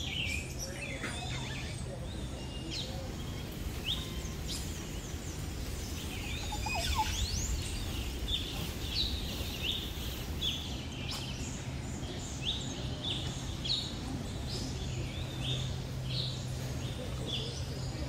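Birds calling: a run of short, high chirps, repeated about once or twice a second through the second half, with a few quick sweeping notes before that.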